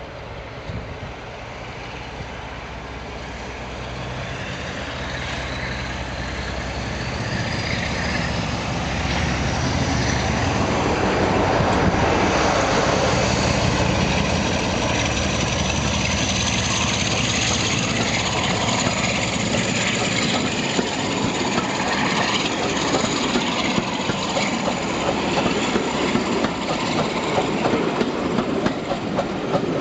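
Class 47 diesel-electric locomotive with its Sulzer twelve-cylinder engine, hauling a train and growing steadily louder over the first ten seconds or so. The loco then gives way to the train's wheels clicking rhythmically over rail joints, which runs on steadily.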